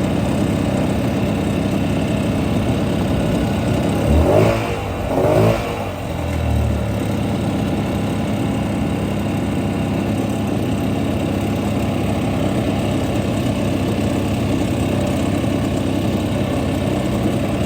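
Two-stroke jet ski engine idling steadily, blipped twice in quick succession about four seconds in and then dropping back to idle. The engine is shaking with a lot of vibration, which the owner suspects may not be normal.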